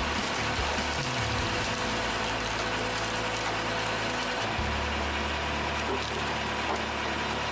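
Horizontal log-splitting machine running steadily through its splitting push cycle, its power unit humming with a low drone that shifts in pitch a couple of times.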